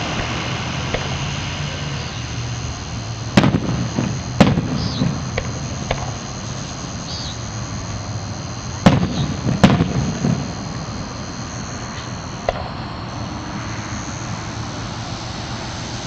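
Aerial fireworks shells bursting in the sky: two sharp bangs a second apart about three seconds in, and another pair about nine seconds in, each followed by a rolling echo, with a few fainter pops between.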